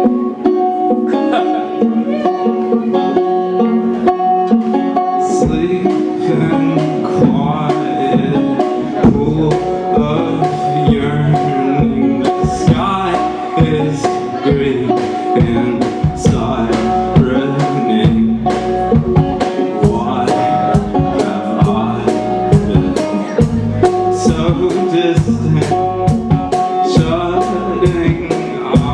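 Live band music led by a plucked banjo. For the first five seconds or so the banjo plays without bass, then bass and drums come in with a steady beat.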